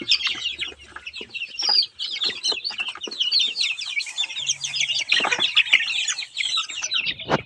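A flock of chickens calling all at once, a dense chorus of short, high-pitched overlapping calls, with a sharp click near the end.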